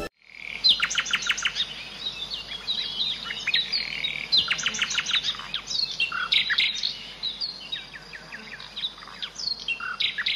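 Several small birds chirping and twittering in quick, high, falling notes, over a faint steady hiss of outdoor ambience.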